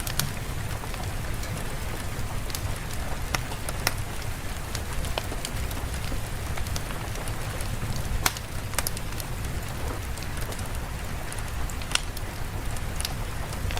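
Steady rain ambience: an even hiss of rain with a low rumble underneath and scattered sharp clicks, the loudest about eight seconds in.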